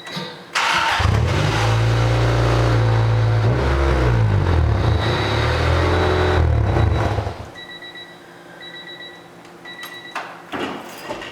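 1993 Honda Civic EG hatchback's engine starting with a sudden burst about half a second in, then running through its exhaust with a couple of revs that rise and fall, and shutting off about seven seconds in. After it stops, a faint intermittent beeping and a couple of short thuds near the end.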